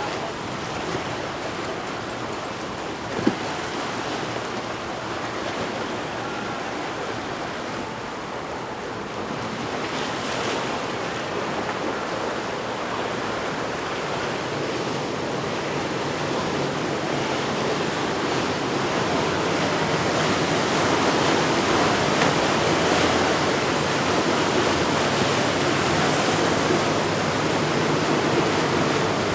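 Steady rush of surf and churning water with wind buffeting the microphone, growing louder through the second half, with a faint low engine drone underneath.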